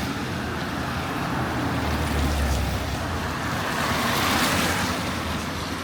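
Road traffic on a wet street: a steady hiss of tyres with a low rumble, and a passing vehicle's hiss swelling and fading about four seconds in.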